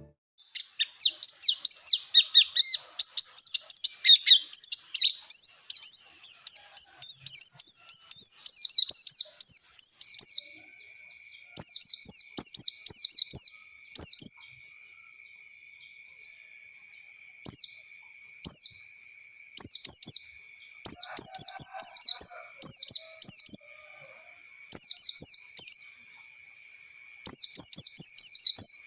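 White-eye (pleci) singing: fast, high twittering chirps, an unbroken run for about the first ten seconds, then short bursts of song with brief gaps between them. A faint steady high tone sounds underneath from about ten seconds in.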